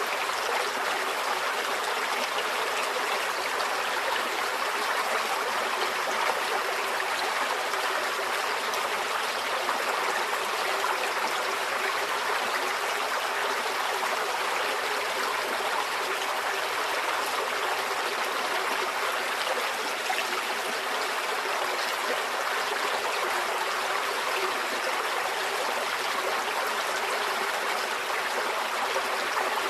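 Small stream flowing steadily over stones, a continuous even rush of water without pauses.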